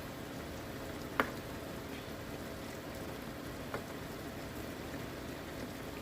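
Pot of tinola soup simmering on the stove with a steady bubbling hiss, with a sharp click a little over a second in and a fainter one near the middle.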